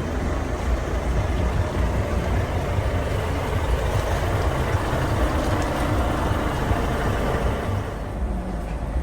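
Diesel engine of a 1964 Scania Vabis L 56 truck running with a steady low rumble. It grows a little louder through the middle and eases off near the end.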